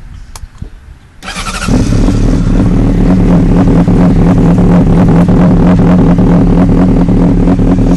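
Honda CBR600RR inline-four sport bike being started: a couple of clicks, then the starter cranks briefly about a second in, and the engine catches and settles into a loud, steady idle through a Two Brothers carbon-fibre aftermarket exhaust.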